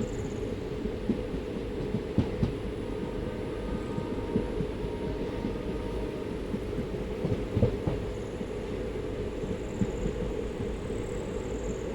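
Train running along the track: a steady low rumble with scattered short knocks and clicks from the wheels.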